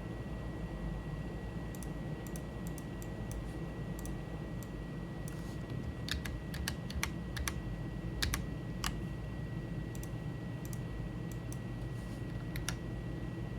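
Computer keyboard keys and mouse buttons clicking in short irregular runs, quickest and loudest about halfway through.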